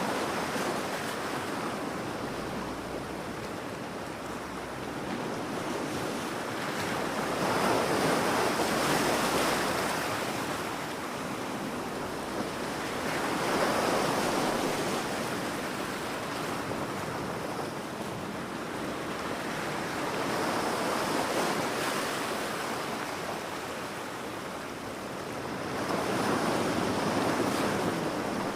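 Ocean surf breaking on a beach: a continuous wash of water that swells into a louder surge every five to seven seconds and then ebbs away.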